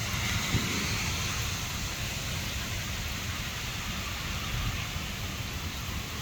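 Steady heavy rain hissing down, with an irregular low rumble underneath.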